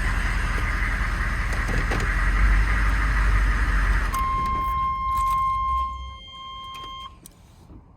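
GMC 3500's 6.5-litre Detroit Diesel turbo V8 running, then shut off about four seconds in and winding down to a stop. As it stops, a steady electronic warning tone sounds for about three seconds and cuts off with a click, followed by a few small clicks.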